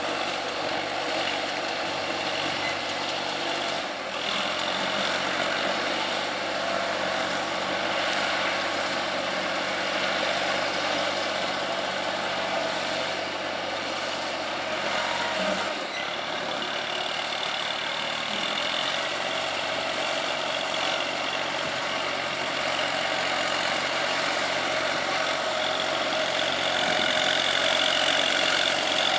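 New Holland 3230 TX Super tractor's diesel engine running steadily as the tractor works in deep mud. Its note shifts slightly a few seconds in and again about halfway through.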